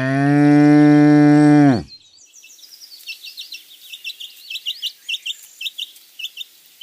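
A bull bellowing in one long, drawn-out moo that rises a little in pitch and then holds before stopping about two seconds in. After it, a run of short, high chirps repeats several times a second.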